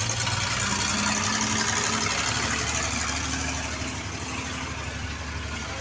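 Monster truck engine running steadily at low revs, a deep hum that eases slightly toward the end.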